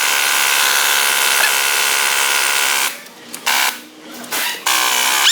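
Pneumatic impact wrench running continuously for about three seconds, then in three short bursts, loosening a tight nut on a shock absorber assembly.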